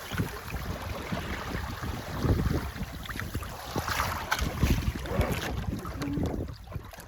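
Wind gusting over the microphone with water splashing and rushing around a sailboat; it eases a little near the end.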